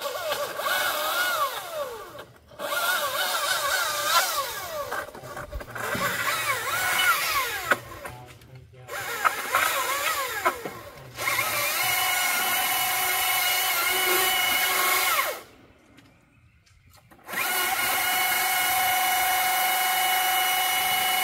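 Chainsaw cutting a tree limb in several short runs, its motor whine rising and falling in pitch under load for the first ten seconds or so, then running at a steady pitch. The motor stops completely between runs, with the longest pause about three-quarters of the way through before it starts up again.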